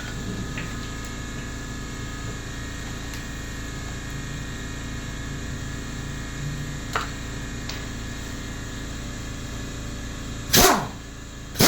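Steady background hum, with a faint click about seven seconds in. Near the end come two short, loud barks about a second apart, like a dog barking.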